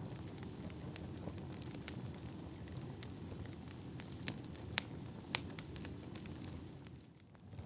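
Firewood burning: a steady low rumble of flames with scattered sharp crackles and pops, the loudest about five seconds in. The sound dips briefly near the end before coming back.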